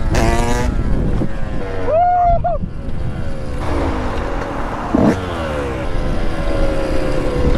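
Motorcycle engines revving, their pitch climbing and falling with the throttle and gear changes, over steady wind and road rumble; a short sharp noise stands out about five seconds in.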